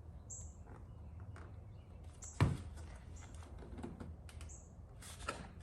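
Scattered knocks and clicks of plastic trim clips and car body pieces being handled and pressed into place, with the loudest knock about halfway through and another near the end.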